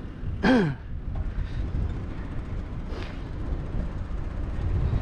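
Low rumble of wind buffeting the microphone while riding a bicycle. About half a second in there is a short vocal sound falling in pitch.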